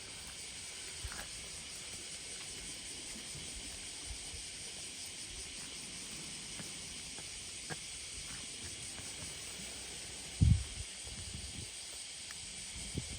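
Steady high hiss of outdoor summer ambience, with a few faint ticks and one short, loud, low thump about ten and a half seconds in.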